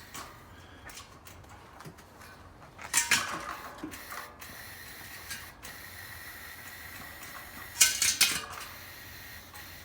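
Metal clinking and rattling in two short clusters, about three seconds in and near the end, as the parts of a propane tank-top heater are handled, over a faint steady hiss.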